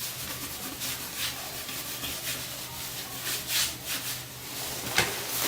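Writing by hand: a series of short scratching strokes of a pen or marker across a writing surface.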